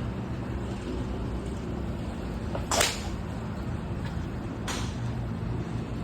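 Golf club striking a ball: one sharp crack about three seconds in, with a fainter strike just under two seconds later, over a steady low background rumble.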